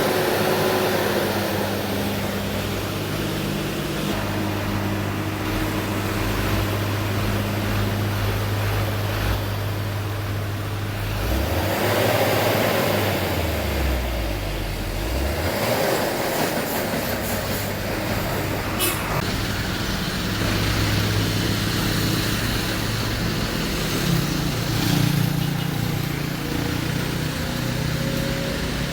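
Heavy diesel truck engine running, its pitch shifting up and down in the middle stretch.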